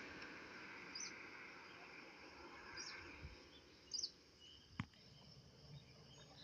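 Near silence with a few faint, short bird chirps and one sharp click past the middle.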